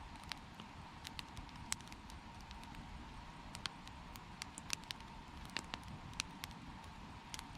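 Wood campfire crackling: sharp, irregular pops from the burning wood over a steady low noise.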